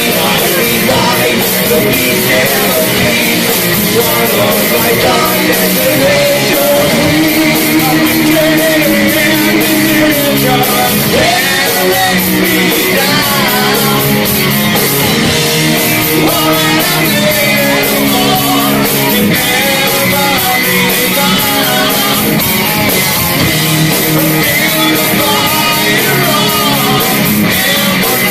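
Live metal band playing loudly: electric guitars and drum kit with yelled singing, without a break.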